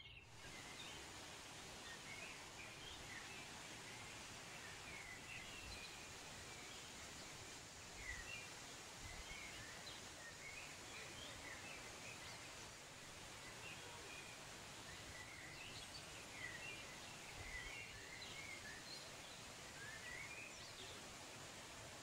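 Songbirds chirping: many short, high calls scattered over a steady, faint hiss of outdoor ambience.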